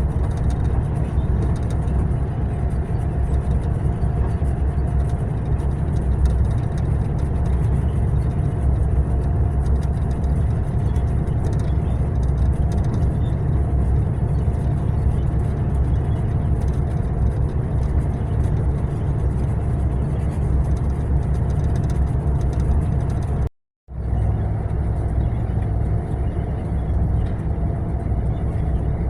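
Mercedes-Benz long-distance coach on the move: a steady low rumble of engine and road noise with a faint steady whine above it. The sound drops out completely for a fraction of a second a few seconds before the end.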